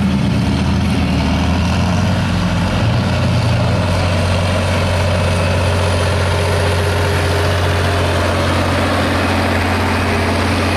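Truck engine idling with a steady low hum, wavering a little in the first few seconds and then holding even.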